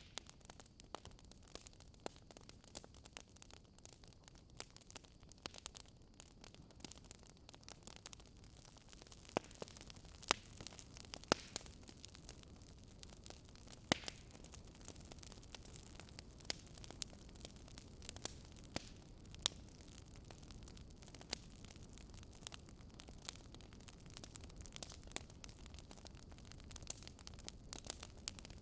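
Wood fire crackling: irregular sharp pops and snaps, a few louder than the rest, over a faint low hiss.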